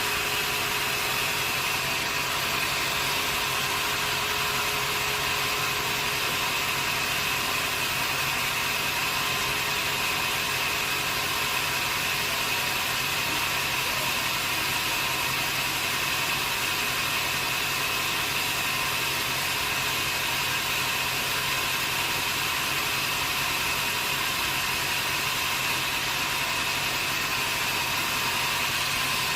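Sawmill machinery running steadily with no cut being made, a constant mechanical noise with a steady high-pitched tone through it.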